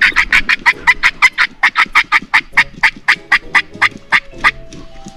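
Wild turkey sounds: a rapid run of short, sharp beats, about five a second, slowing and fading out over about four seconds.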